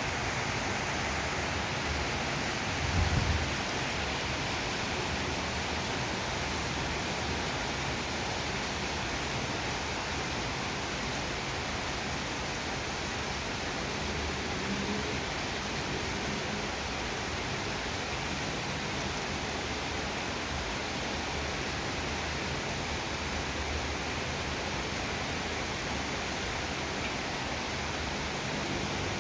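Steady heavy rain, an even hiss with no letup, and a brief low thump about three seconds in.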